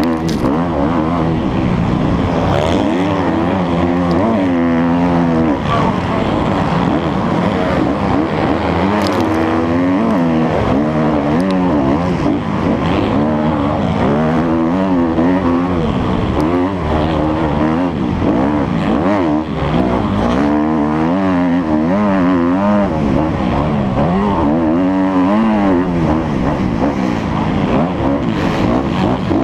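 Motocross bike engine revving up and dropping back again and again as the rider accelerates, shifts and brakes around the track.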